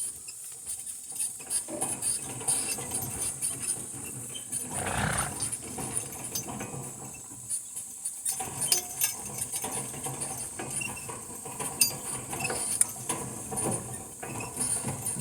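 Metal clinking and rattling from a working donkey team's harness as the donkeys move, with scattered clicks and a louder rustle about five seconds in, over a steady high insect drone.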